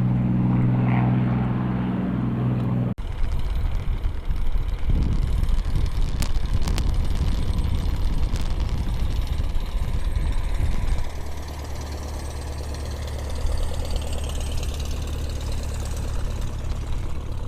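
An engine running steadily at idle. About three seconds in, the sound cuts abruptly to an uneven low rumble with a few sharp clicks.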